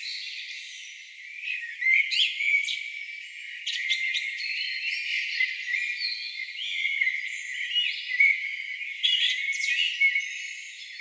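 A chorus of several songbirds singing at once: overlapping chirps, trills and quick whistled glides, with no low sounds underneath.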